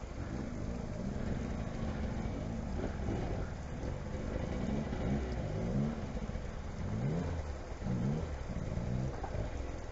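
A vehicle engine revving, its pitch rising and falling several times as the throttle is opened and eased.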